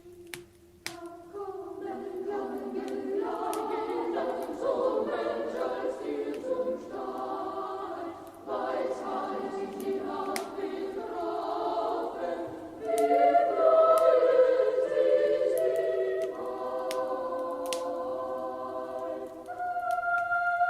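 Choir singing a Christmas song in held, sustained chords, over the sharp snapping crackle of a wood fire in a fireplace.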